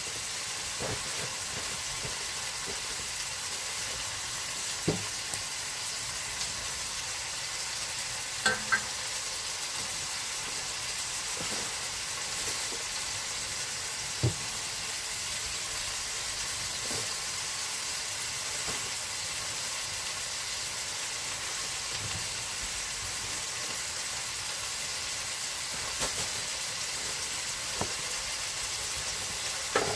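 Food frying, a steady sizzling hiss, with a few light knocks and clinks of cookware now and then.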